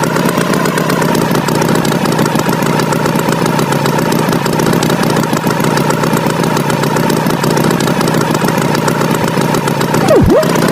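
Cartoon tractor engine sound effect running steadily, with a brief swooping tone that dives and rises again near the end.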